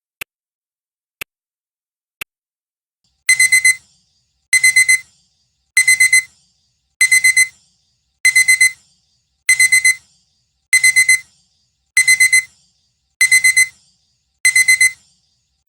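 A clock ticks once a second for the last three seconds of a countdown, then a digital alarm-clock beep goes off about three seconds in: bursts of four quick high-pitched beeps, repeating about every 1.2 seconds, signalling that the timer has reached zero.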